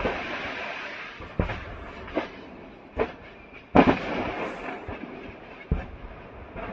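Ammunition depot cooking off after a HIMARS strike: six sharp blasts over continuous crackling, the loudest a little under four seconds in.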